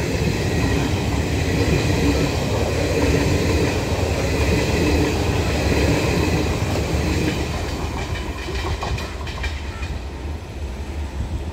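A passing passenger train's coaches rolling along the track in a steady rumble with wheel clatter, easing off over the last few seconds.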